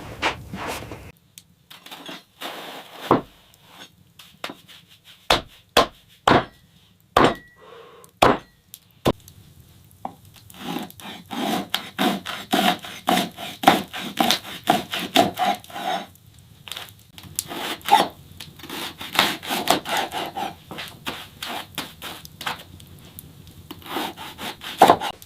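Wood being worked by hand: a few separate knocks about a second apart, then long runs of quick, rasping strokes on wood, with a short break between them.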